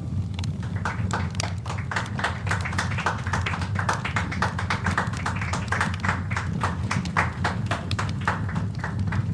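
Campfire crackling: irregular sharp pops and snaps, several a second, over a steady low rumble of burning.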